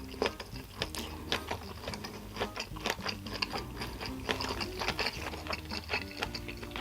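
Close-miked eating of yakisoba: chewing with many sharp, irregular mouth clicks, over low steady background tones.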